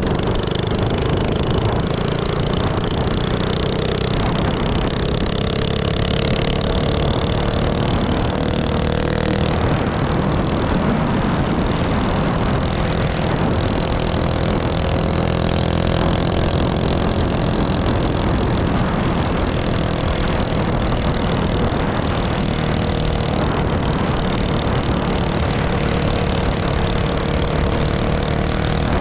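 Small minibike engine running loud and steady for the whole stretch, its pitch drifting slightly up and down without a clear rev or cut-off.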